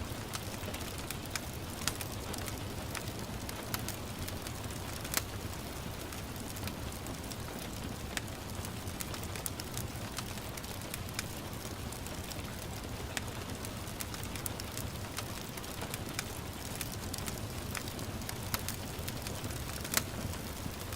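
Wood fire crackling with scattered sharp pops over a steady hiss of gentle rain and a low rumble. The loudest pops come about five seconds in and again near the end.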